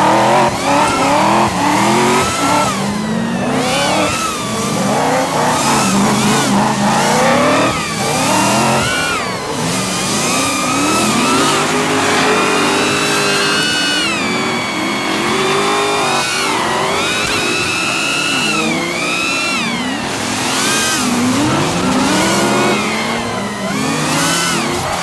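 Drift cars' engines revving, their pitch climbing and dropping again and again, with more than one engine heard at once.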